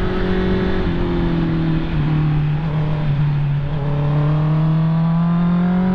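Honda CB650R's inline-four engine heard while riding: its note eases down over the first few seconds, then climbs steadily as the throttle opens again, over a steady wind and road rush.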